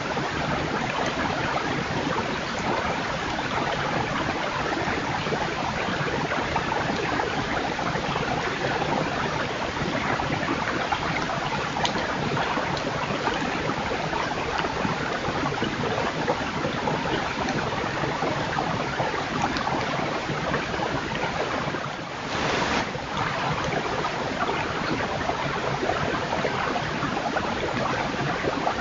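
Steady, even rushing noise, dipping briefly about 22 seconds in.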